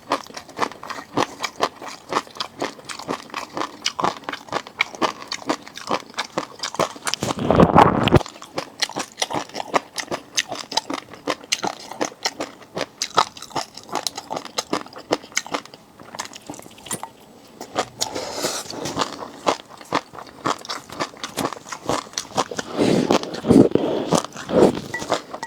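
Close-miked eating of raw seafood: a dense run of bites, crunches and chewing clicks, with two louder, longer bursts about seven seconds in and near the end.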